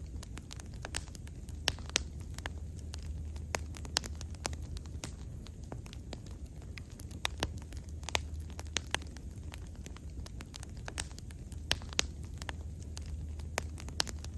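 Wood fire burning, with sharp, irregular crackles and pops over a steady low rumble of the flames.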